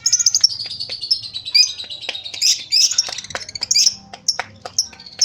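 Lovebird singing its ngekek, a rapid, shrill chattering run of chirps and trills, with sharp clicks mixed in. It thins out near the end. The bird is a short-ngekek singer, one that does not hold its chatter for long.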